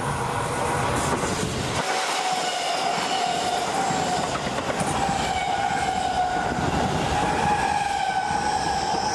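Seibu 30000 series electric commuter train passing close by at speed: a dense rumble of wheels on rail, with a steady high whine joining in about two seconds in and fainter whines shifting slowly above it.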